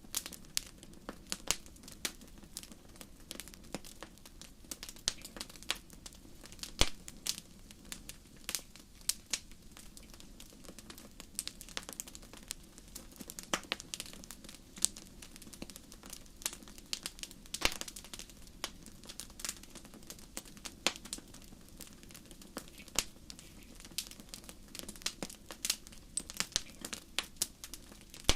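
Wood fire crackling: a dense, irregular run of small pops and snaps over a low steady rumble, with one sharper pop about seven seconds in.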